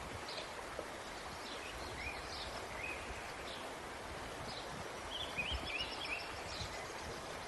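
Small birds chirping on and off over a steady outdoor background hiss, with a quick run of chirps about five seconds in.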